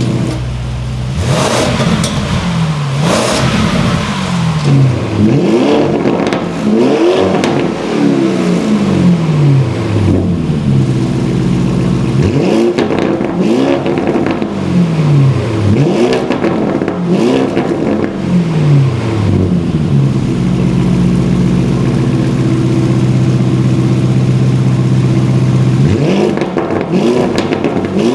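Lamborghini Urus twin-turbo V8 through a titanium valved catback exhaust, revved over and over: each rev climbs quickly and then falls back slowly, about every two seconds. From about twenty seconds in it holds a steady note for several seconds, then the revs start again.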